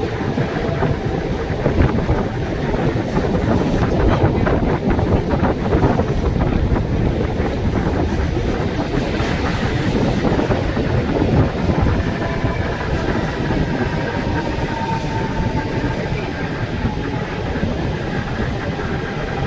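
Mumbai suburban electric local train running at speed, heard from its open doorway: a steady rumble and rattle of wheels on the track with wind buffeting the microphone, while another local train runs close alongside on the next track. A faint high whine comes in about two-thirds of the way through.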